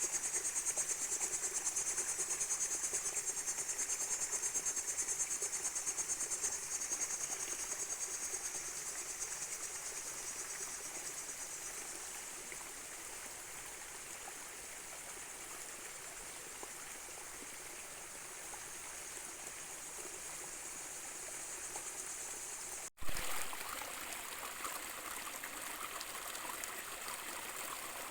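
A high, dense chorus of trilling insects that fades away over the first dozen seconds, leaving a soft steady hiss. About 23 seconds in, the sound breaks off with a click, then a small stream runs with a steady trickling rush.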